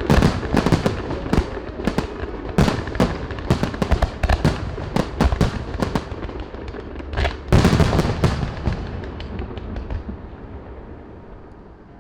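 Fireworks display: rapid bangs and crackling shell bursts, with a loud cluster of bangs about two-thirds of the way in, then the rumbling echo dies away.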